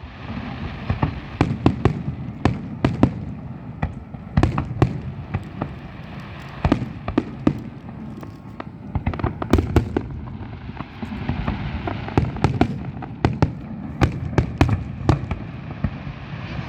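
Fireworks exploding in a rapid, continuous barrage: many sharp bangs, several a second, over a steady crackle.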